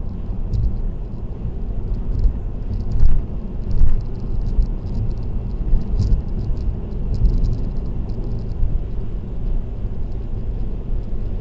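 Steady road and tyre rumble of a car cruising on an expressway, heard from inside the car. Two louder thumps come about three and four seconds in.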